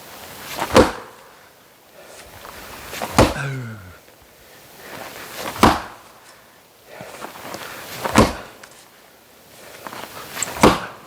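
Oak firewood being chopped: five sharp blows at an even pace, about two and a half seconds apart. A brief low falling tone follows the third blow.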